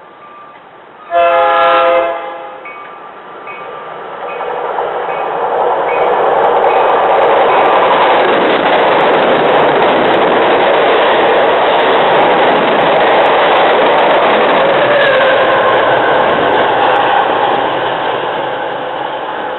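A train horn sounds one short, loud blast, then an MBTA commuter train of bi-level coaches passes close at speed. Its rumble and rail noise build over a few seconds, hold loud for about ten seconds, and ease off near the end.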